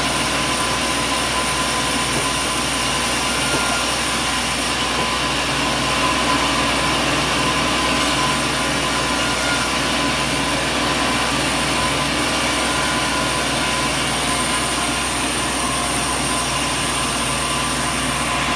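Sawmill machinery running steadily: an even mechanical drone with several constant humming tones and no separate cuts or impacts.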